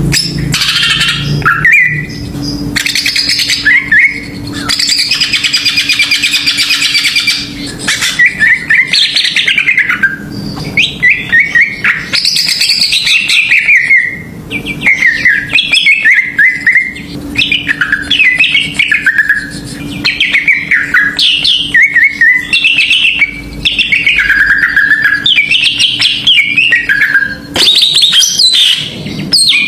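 Cucak ijo (green leafbird) singing loudly and almost without pause, in a fast run of varied whistled phrases, many of them sweeping downward. This is a lure song of the kind bird keepers play to make caged leafbirds sing.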